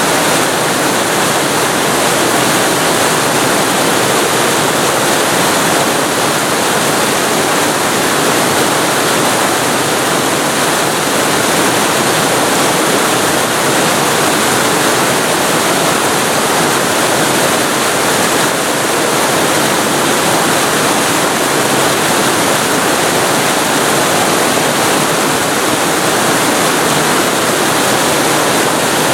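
Waterfall recorded very close to the falling water: a loud, steady rush without breaks or changes.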